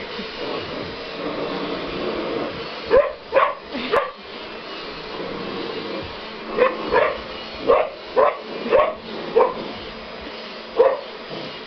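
Vizsla puppy barking at a running vacuum cleaner, whose steady hum sits underneath: three short, sharp barks about three seconds in, then a run of seven more from about six and a half seconds to eleven.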